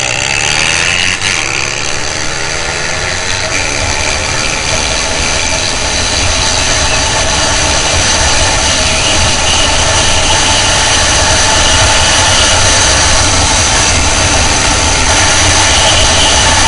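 Honda Tiger's single-cylinder motorcycle engine heard from on board, its revs climbing over the first few seconds as the bike accelerates hard, then held at a steady high speed under loud wind noise on the microphone.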